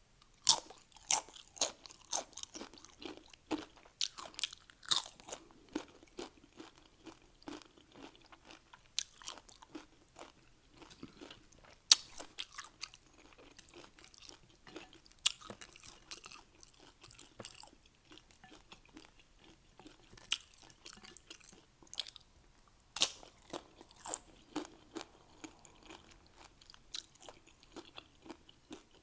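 Close-up chewing of crunchy Doritos tortilla chips, sharp crunches and crackles coming irregularly, thicker in the first few seconds and again about twenty seconds in.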